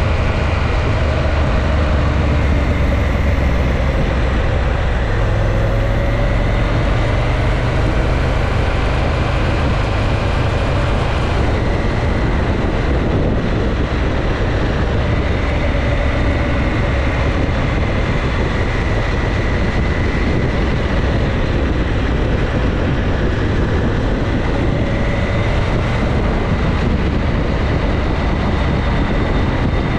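Motorcycle on the move: steady wind rush over the running engine, the engine's pitch drifting gently up and down.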